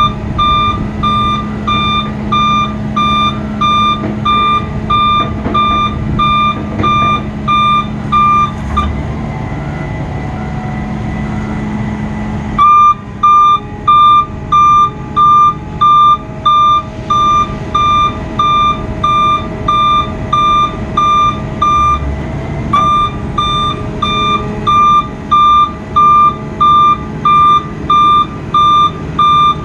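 A truck's backup-style warning alarm beeping about twice a second over the steady running of the truck's engine. The beeping stops for about four seconds a third of the way in, then resumes, with another short break about two-thirds of the way through.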